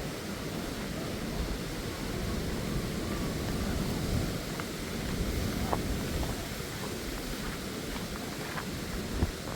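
Steady rush of white water as the Waikato River pours through the Huka Falls channel, an even, unbroken noise.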